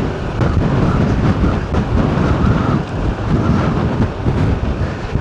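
Loud, continuous low rumble of a car driving, with wind buffeting the microphone.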